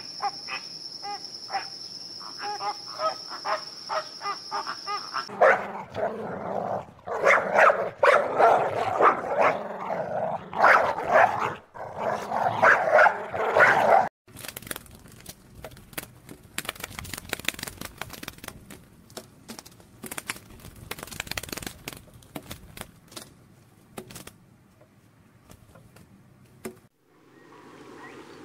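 A dog barking and yipping loudly and repeatedly for about nine seconds, cut off suddenly. Before it comes a run of short repeated bird calls over a steady high whine, and after it quieter scattered rustling and clicks.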